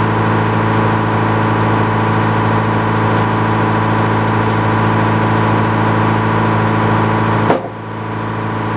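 A motor or engine running steadily at a constant pitch. About seven and a half seconds in there is a click and the sound drops abruptly, then builds back up.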